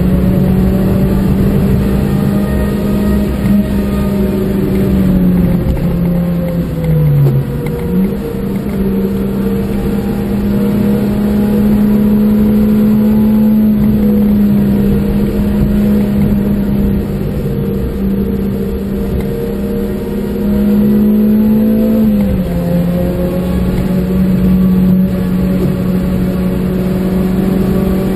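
Suzuki Swift Sport's four-cylinder engine running hard, heard from inside the cabin with road noise. Its pitch sinks under braking, jumps back up with a downshift about eight seconds in, climbs steadily through the gear, and drops sharply with an upshift a little after twenty seconds.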